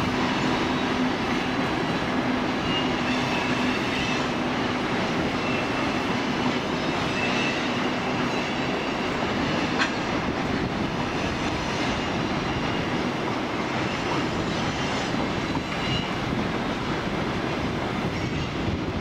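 Railway wagons rolling along the track in a steady rumble of wheels on rail, with faint intermittent wheel squeal and a single click about halfway through.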